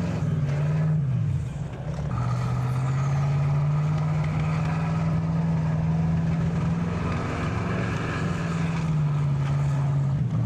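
Alvis Stalwart 6x6 amphibious truck's Rolls-Royce B81 straight-eight petrol engine running steadily. Its pitch drops briefly about a second in, then comes back up and holds.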